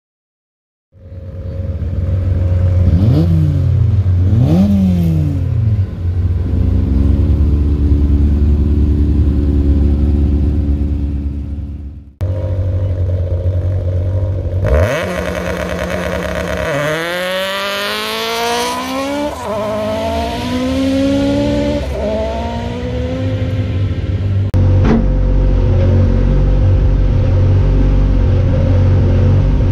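Toyota Starlet rally car's engine idling and being blipped: two quick revs a few seconds in, then after a short break a run of revs rising and falling, settling back to a steady idle near the end.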